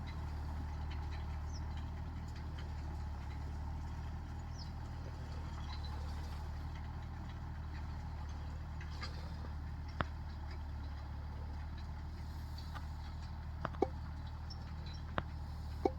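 Tractor engine running steadily with a low hum, with a few sharp clicks or knocks, one about ten seconds in and several close together near the end.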